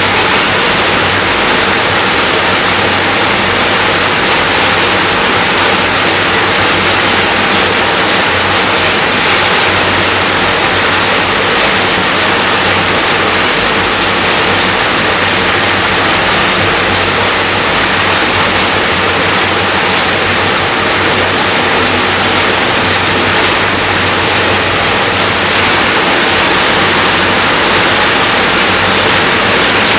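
Steady rainfall: a loud, even hiss that does not let up.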